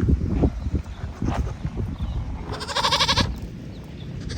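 A goat bleating once, a wavering call of under a second about two and a half seconds in, over a low rumble.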